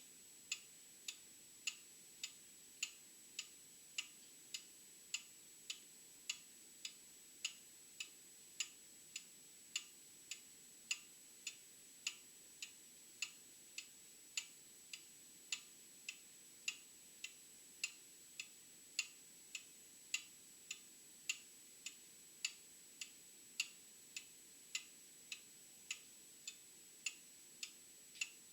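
Old clock ticking steadily and faintly, just under two ticks a second, the strokes varying a little in loudness.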